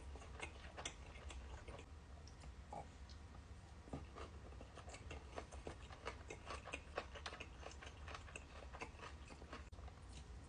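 A person chewing sushi close to the microphone: many short, faint, irregular mouth clicks, with a low steady hum underneath.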